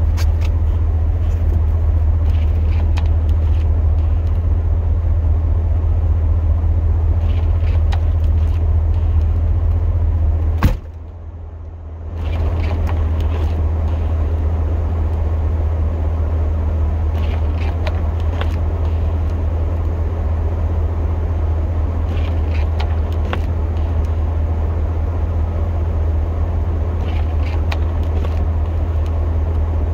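Pickup truck engine idling with a steady low hum. About eleven seconds in there is a sharp knock, the sound drops for about a second and a half, then the idle comes back.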